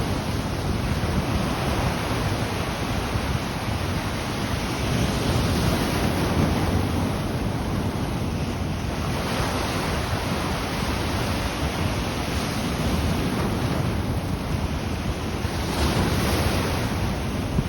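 Ocean waves breaking on the shore in a steady wash, swelling and easing every few seconds, with a rumble of wind on the microphone.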